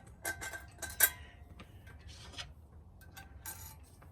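Metal hardware clinking and knocking as bolts and parts are handled against the steel vise and stand: a quick run of sharp clinks in the first second, the loudest about a second in, then a few fainter clicks near the end.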